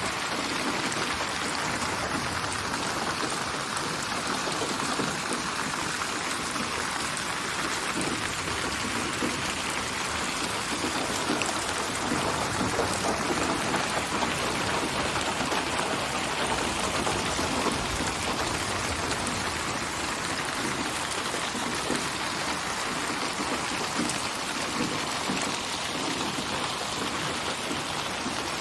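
Steady rain, with an even patter of many drops on surfaces. It is a synthetic rain soundscape built from hundreds of rain recordings and spatialised with 8D/HRTF processing so the rain seems to surround the listener.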